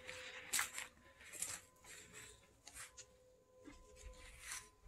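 Faint scattered rustling and light clicks, the loudest about half a second in, over a faint steady thin tone.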